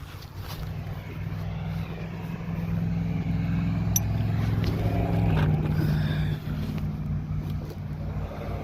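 A motor running with a steady low hum. It grows louder from about two seconds in and drops back suddenly a little past the middle.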